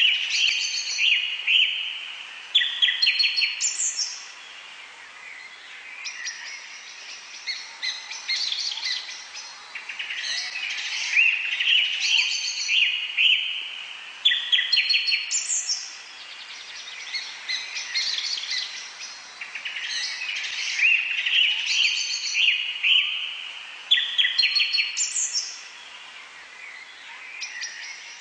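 Birds chirping and singing: rapid trills and short whistles sweeping upward, several calls overlapping. The same sequence of calls recurs about every ten seconds.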